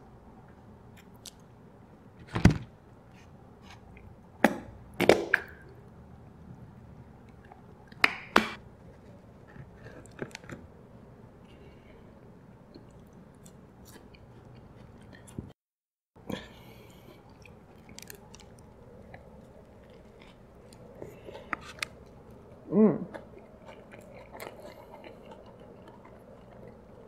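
Close-miked eating sounds: a few sharp squelches in the first nine seconds as tartar sauce is squeezed from a squeeze bottle onto a Big Mac and the bun is handled, then biting into the burger and wet chewing. A short hummed sound comes about 23 seconds in, and the sound drops out briefly midway.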